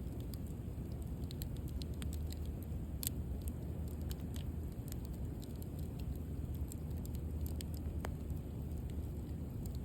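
Wood fire burning with a steady low rush, with scattered sharp crackles and pops, one louder pop about three seconds in.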